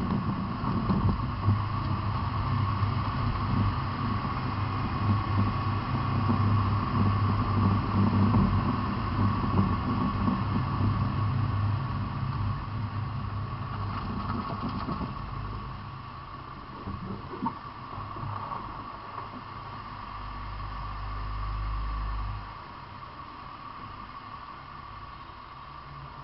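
A running vehicle engine gives a steady low rumble under a constant high whine. The rumble eases a little over halfway through, swells briefly, then drops.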